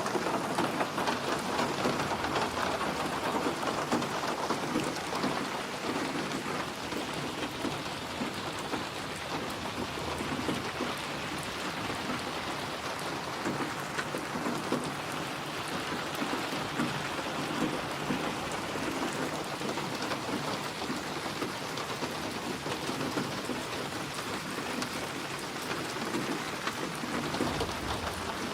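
Steady rain falling, with a low rumble of thunder near the end.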